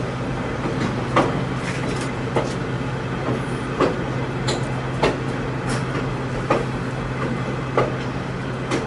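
Inside a moving railroad passenger coach: the steady rumble and low hum of the car rolling along the track, with irregular sharp clicks and knocks from the wheels and car body, about one every half second to a second.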